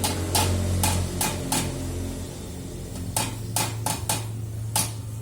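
Yamaha RX-King two-stroke single engine idling through a trumpet-style exhaust, a steady low hum. Over it come about ten sharp metallic clicks or knocks: a cluster in the first second and a half, then another from about three seconds in.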